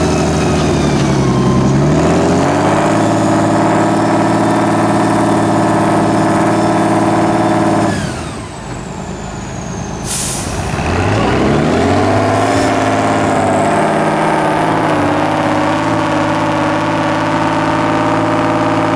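Tatra 8x8 truck's turbo-diesel engine revving up and held at high revs under load, dropping back sharply about eight seconds in. A short hiss of air comes about ten seconds in, then the engine revs up again and holds.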